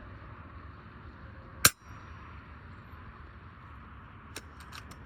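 A single shot from an FX Impact M4 .22 PCP air rifle: one sharp crack about a second and a half in. Near the end come a few light clicks.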